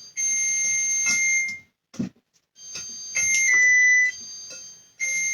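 Oven's preheat signal beeping: steady high-pitched tones in repeated stretches of about a second and a half, meaning the oven has reached temperature. A short knock comes about two seconds in.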